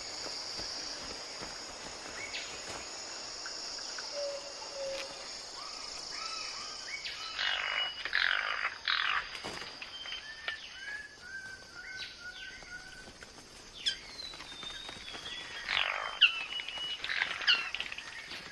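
Forest birds calling over a steady high insect drone. The drone fades after several seconds. The birds give falling whistles, a run of short repeated notes, and loud harsh calls about halfway through and again near the end.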